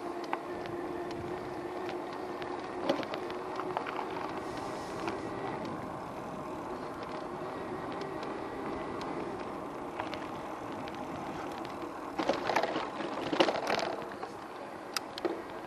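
E-bike being ridden: a steady hum with scattered clicks and rattles from the bike, and a louder burst of rattling about twelve seconds in that lasts a couple of seconds.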